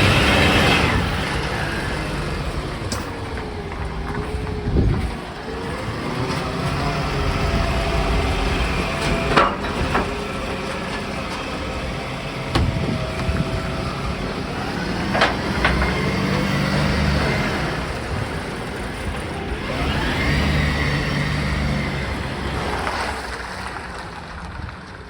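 Garbage truck at work: the engine runs steadily, with a whine holding one pitch for several seconds and a few sharp knocks spread through.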